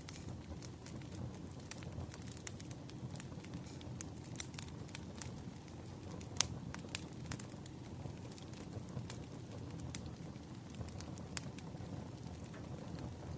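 Burning firewood crackling, with irregular sharp pops and snaps, the loudest about six and a half seconds in, over a steady low rumble.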